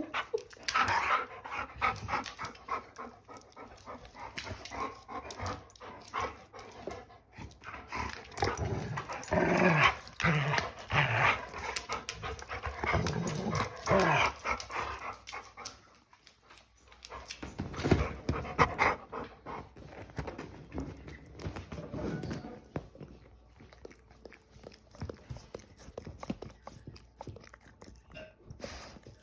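Dogs panting, with short irregular vocal sounds and scattered small clicks and rustles.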